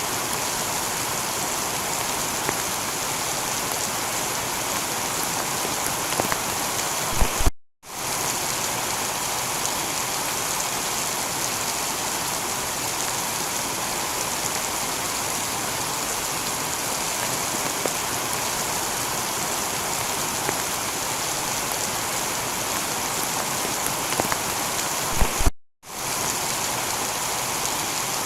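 Steady heavy rain falling on a tiled roof. Twice the sound cuts out completely for a split second, each time just after a short knock.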